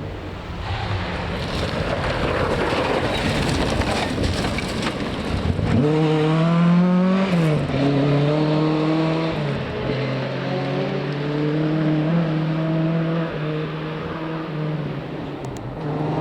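Rally car engine on a gravel forest stage. A noisy rush opens, then the revs climb sharply about six seconds in, drop back, and hold a fairly steady engine note until near the end.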